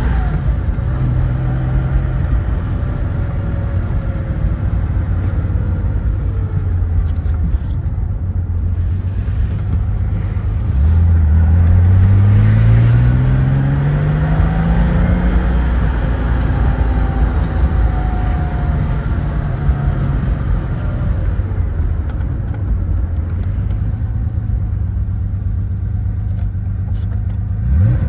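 1975 Porsche 911S's 2.7-litre air-cooled flat-six running on the road, its note climbing as the car accelerates through a gear about eleven seconds in, then holding steady at cruise with road and wind noise.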